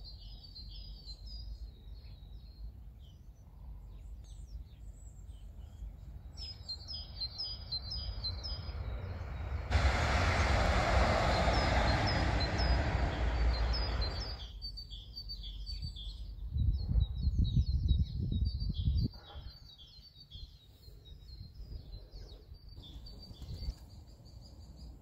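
Small songbirds singing, short high phrases repeated over and over. About ten seconds in, a loud rushing noise cuts in for four or five seconds and stops abruptly, and a little later comes a low rumble for a couple of seconds.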